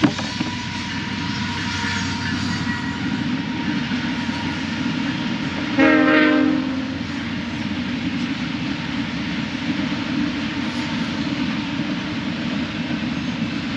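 Freight train passing, a steady low rumble of rolling cars, with one short blast of its horn about six seconds in.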